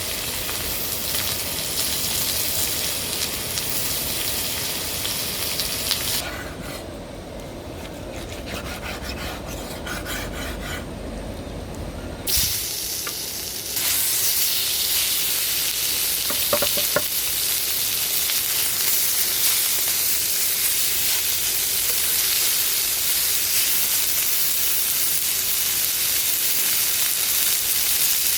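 Food sizzling as it fries in a hot pan, a dense steady hiss. The sound changes abruptly a few times, quieter and thinner for several seconds in the middle, with scattered small clicks.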